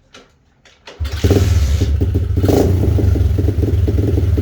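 A Zongshen 125cc four-stroke single-cylinder pit-bike engine starting: a few faint clicks, then it catches about a second in and runs loudly and steadily, with one brief louder blip. It is a bike that is a little difficult to start.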